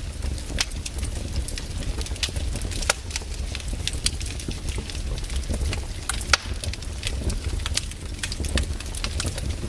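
Wood campfire crackling, with many quick, irregular pops over a steady low rumble.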